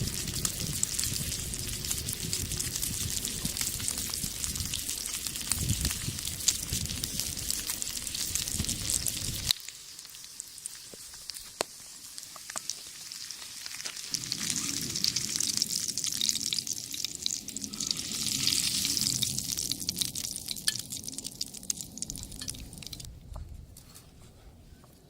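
Meat sizzling in a skillet over a wood fire, a steady hiss with many small crackles. It breaks off abruptly about nine and a half seconds in, comes back softer, swells again, and fades away near the end.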